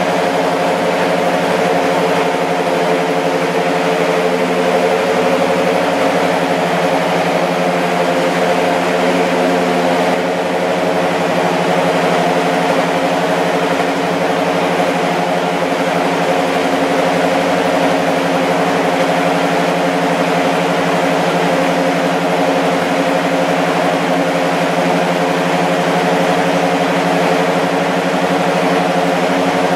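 Lexus SC430 GT500 race car's V8 engine idling steadily during warm-up.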